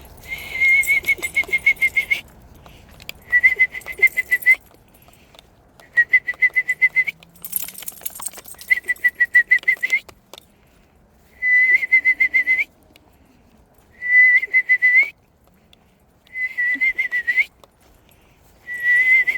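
A person whistling an imitation of a screech owl's trill: about eight short trills, each a rapid run of pulses at one steady high pitch lasting a second or two, repeated with brief pauses between.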